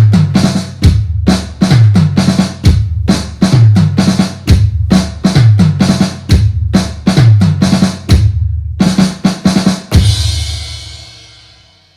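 Drum-kit music: a fast, steady beat of bass drum and snare hits, ending on a crash that rings and fades away near the end.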